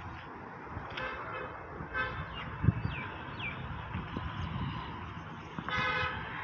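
Outdoor ambience in which a vehicle horn gives two short toots and then a longer one near the end. Over the steady background noise there are also a few short falling whistles and a single knock.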